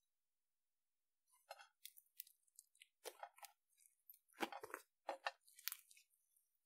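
Slime being handled and squeezed, giving a run of irregular crackles and pops that begins about a second in, the loudest near the middle.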